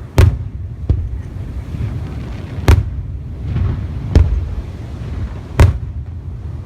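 Aerial fireworks shells bursting: four loud bangs about a second and a half apart, with a smaller bang near the start and a low rumble between them.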